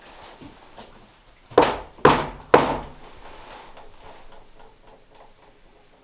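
Three loud knocks on a solid wall in quick succession, about half a second apart, each ringing briefly in the room: a call for a spirit to knock back.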